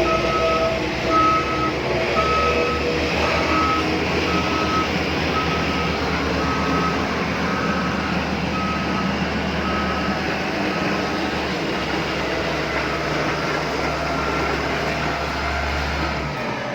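Reversing beeper of an RC construction vehicle beeping about twice a second, over the continuous whirr of its electric drive motor and gears.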